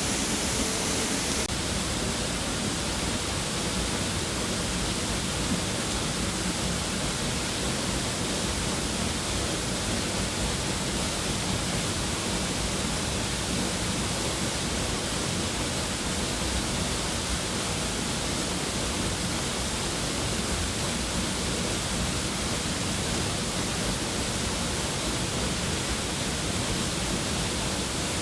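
Waterfall: the steady rush of falling water, an even hiss spread across low and high pitches without a break.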